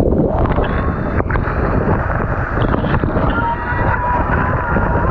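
Loud, steady rush of a waterfall in monsoon flow, with wind buffeting the GoPro's microphone.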